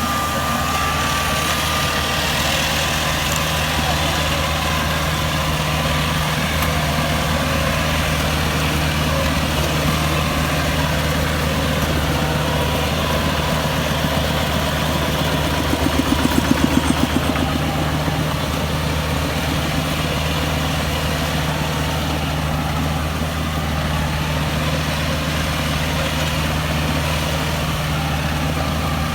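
Kubota DC-70 Plus combine harvester's diesel engine running steadily while harvesting rice, its low hum unchanging, briefly a little louder about halfway through.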